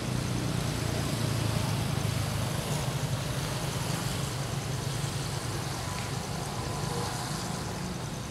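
A motor vehicle's engine running steadily, loudest about a second or two in and easing slowly after.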